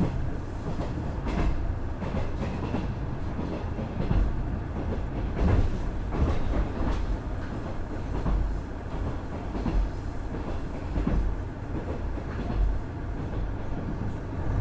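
KiHa 110 series diesel railcar running along the line: a steady low rumble from the Cummins DMF14HZA engine and the wheels on the rails, with irregular clacks and knocks as the wheels pass over rail joints.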